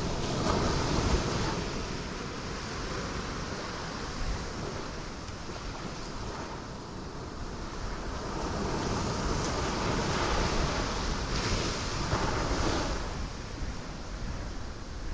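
Ocean waves breaking on rocks: a steady wash of surf that swells into louder surges about a second in and again around two-thirds of the way through, with a wind-like rush beneath.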